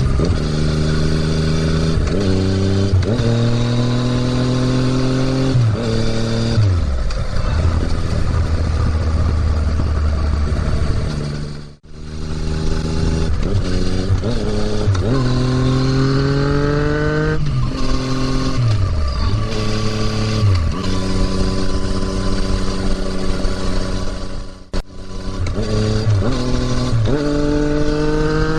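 2020 Yamaha MT-09's three-cylinder engine through an Akrapovič exhaust, ridden on the road: the revs climb and drop sharply at each upshift, fall away when the throttle is closed, and pick up again. The sound cuts out briefly twice.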